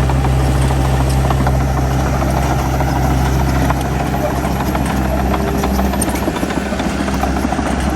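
Heavy diesel earthmoving machine running steadily with a deep, throbbing drone. The low drone eases off about four seconds in, and a few scattered clanks and knocks come near the end.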